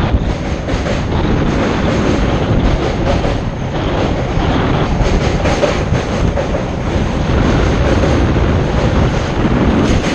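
Wind buffeting the microphone of a camera mounted on the outside of a moving suburban electric local train, over the steady rumble and clatter of its wheels on the rails of a river bridge.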